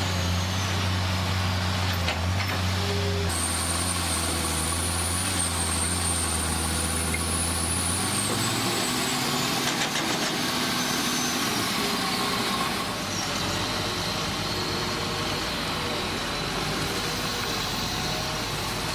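Heavy machinery running steadily, with a low engine drone that drops away about eight seconds in and a high whine that wavers and then falls.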